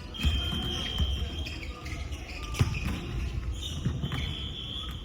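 Volleyball play in a gymnasium: a ball being struck and bouncing, with a loud sharp hit about two and a half seconds in, over a hall's low rumble, and a high steady tone twice.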